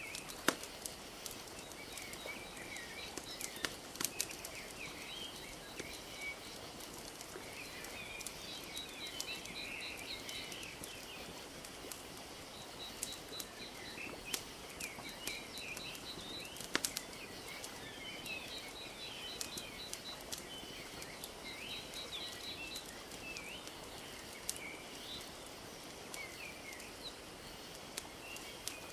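Wood fire crackling with sharp pops scattered throughout, over a steady wash of lapping lake water, while small birds chirp and give quick trilling calls.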